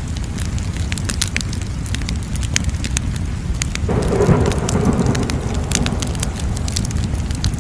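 Fire crackling, with many sharp irregular pops over a steady low rumble of flames. About four seconds in, a louder rushing surge rises for a second or so and fades.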